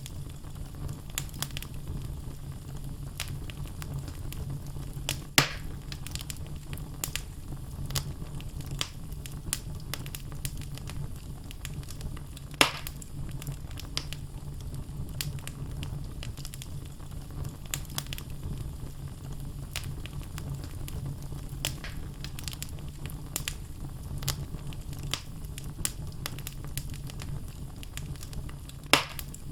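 Wood logs burning in a fireplace: a steady low rumble of flame with frequent small crackles, and three louder pops, about five seconds in, about twelve seconds in and near the end.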